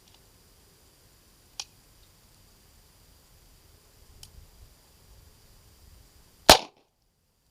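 A sharp click and, later, a fainter click, then one loud .22 rimfire shot from a USFA Zip 22 pistol near the end, cut off abruptly.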